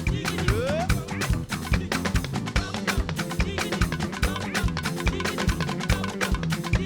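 Live band playing upbeat Yoruba gospel praise music: a drum kit and hand percussion keep a fast, steady beat over a bass line.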